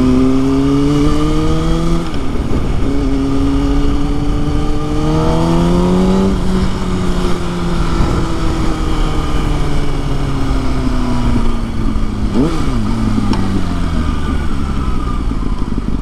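Kawasaki ZX-6R inline-four engine pulling up through the revs, dropping as it shifts up about two seconds in, and climbing again, then a long slowdown with falling revs, broken by one quick rev blip about three-quarters through. A low wind rumble runs under it.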